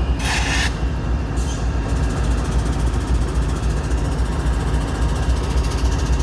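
Diesel freight train rumbling steadily as it approaches, with two short hissing bursts in the first two seconds.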